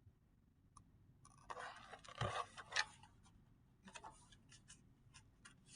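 Faint paper rustling and scraping with a few light clicks as a picture book's page is handled and turned.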